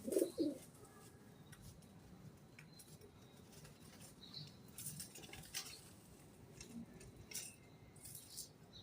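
Rooftop birds with pigeons among them: a short, low two-note coo right at the start, then scattered light ticks and scratches and a few faint, brief high chirps.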